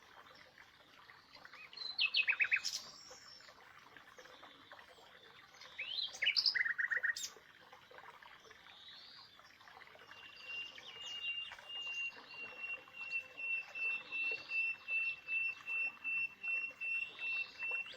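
Birds chirping outdoors: two short bursts of rapid, falling chirps, then from about ten seconds in a steady high-pitched trill that pulses in a quick, even rhythm.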